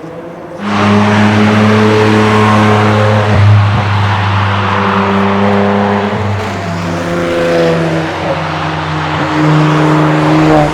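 Car engine under hard throttle, close to the microphone, starting suddenly about half a second in. Its note holds steady, then drops lower in two steps near the end.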